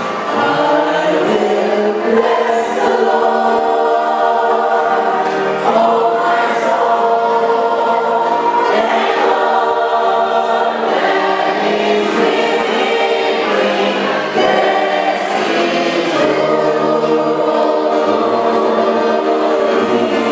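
A choir singing, several voices holding notes together in chords.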